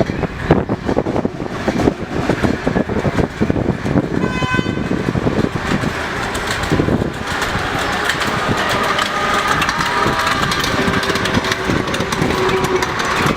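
Miniature garden-railway locomotive running, with a rapid clatter that gives way to a steadier engine hum about seven seconds in, and a brief whistle about four and a half seconds in.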